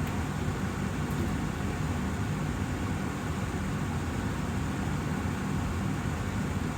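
Austin Air HealthMate Plus air purifier's fan running steadily: a constant rush of air through the filter.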